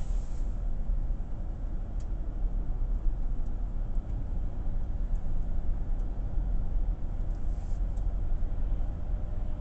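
Steady low rumble of a car moving along the road, heard from inside the cabin, with a few faint clicks.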